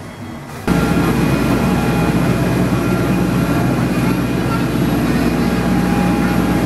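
Boat engine running steadily under way, a loud low drone with rushing wind and water noise, starting abruptly less than a second in.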